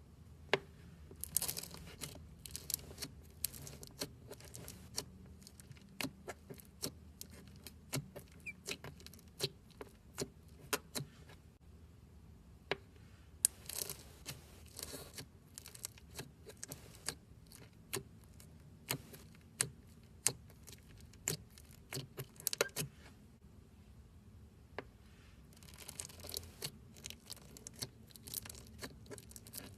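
Foam-bead slime (floam) being squeezed and worked by hand, giving many irregular crackles and pops, with a few denser crunchy spells.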